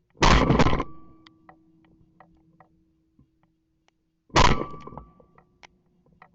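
Two shotgun blasts about four seconds apart, each loud and sudden with a short echoing tail, fired at incoming ducks.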